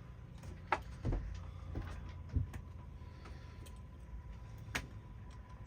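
A handful of light knocks and clicks, about five spread irregularly, as a soundbar or its mount is handled and held in place for mounting, over a faint low hum.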